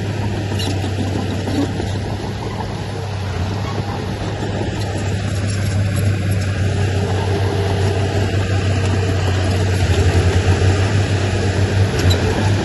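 Heavy earthmoving machine's diesel engine running with a steady low drone. It grows louder about halfway through and takes on a fast throbbing pulse near the end.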